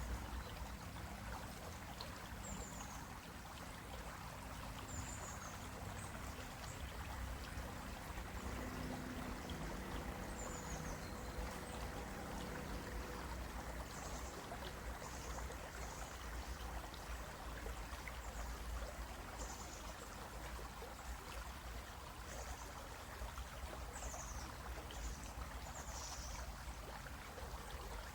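Shallow stream flowing steadily over rocks, a continuous rushing and trickling, with brief high chirps now and then.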